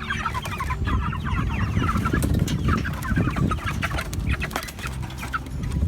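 A flock of hungry Cornish Cross broiler chickens peeping and clucking, many short chirps overlapping, with rustling and knocks underneath as a bird is caught.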